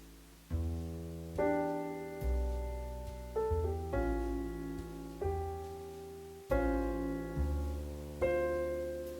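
Background piano music: slow chords with low bass notes, struck about once a second and each left to fade.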